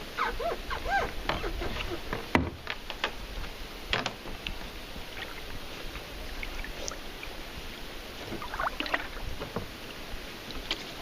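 Water splashing and sloshing around a kayak as someone works in the water beside it. There is a sharp knock about two and a half seconds in and a few smaller clicks later.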